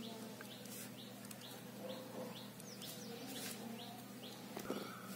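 Faint bird chirping: short, quick high chirps repeated two or three times a second, over a low steady hum.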